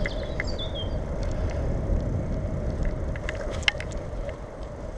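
Steady wind and road rumble from riding a bicycle, with scattered light clicks and rattles from the bike. One sharper click comes a little before four seconds in.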